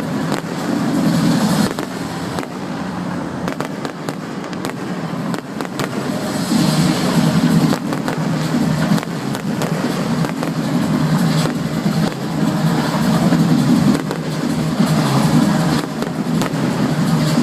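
Fireworks going off in a continuous barrage of bangs and crackles.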